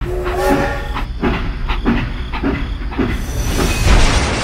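Toy steam locomotive's train sound: a short whistle at the start, then regular chuffing a little under two strokes a second, building to a louder hiss near the end.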